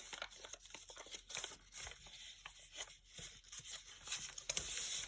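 Origami paper rustling and crinkling in the hands as it is folded and creased, with many small irregular crackles.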